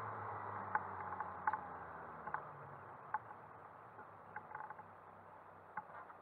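Citroën Saxo N2 rally car's engine running at low revs as the car rolls slowly, heard from inside the stripped cabin, its hum fading over the first few seconds, with scattered sharp clicks and rattles.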